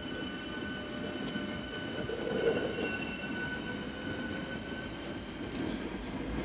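Electric train at a station platform: a steady rumble with a few faint, steady whining tones over it.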